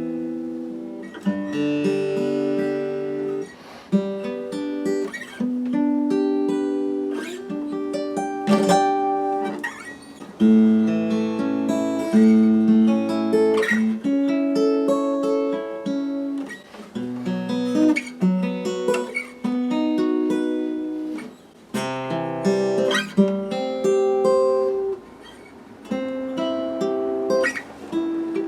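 Acoustic guitar played in a steady run of chords and single plucked notes, with a bass note changing every second or two underneath.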